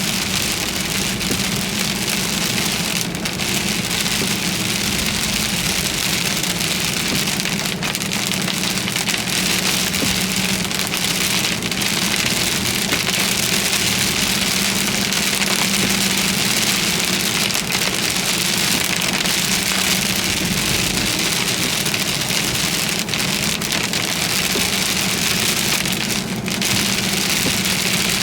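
Heavy rain pouring steadily on a car, with a steady low hum from the vehicle underneath.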